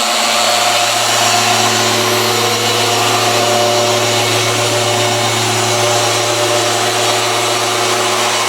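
Rupes Mille gear-driven car polisher running steadily at one constant speed, a motor hum with a steady whine.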